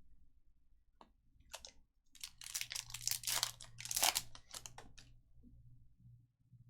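Foil trading-card pack wrapper being torn open and crinkled: a couple of light clicks, then about three seconds of crackly tearing and rustling that trails off.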